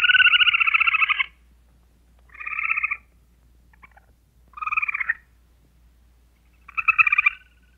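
An animal calling four times with a rapid, trilling pulse: one long call of about a second and a half, then three shorter calls about two seconds apart.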